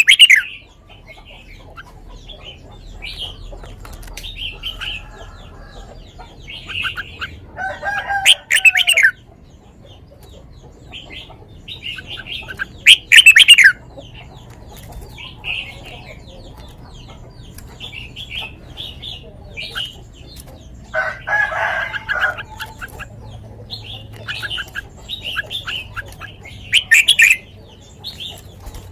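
Caged red-whiskered bulbul singing short, bright whistled phrases over and over, with a few loud sharp bursts. A rooster crows in the background twice, a few seconds in and again past the middle.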